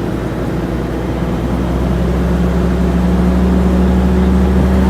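A vehicle's engine running steadily with road noise, a low hum that grows slightly louder about two seconds in.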